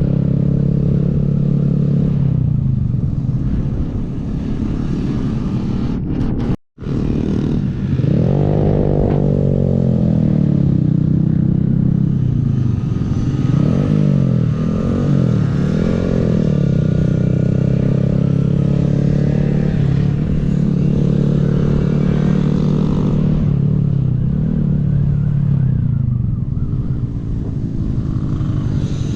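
Small 125 cc single-cylinder Honda motorcycle engine running under way, its pitch rising and falling several times as the throttle opens and closes and gears change. The sound cuts out completely for a moment about seven seconds in.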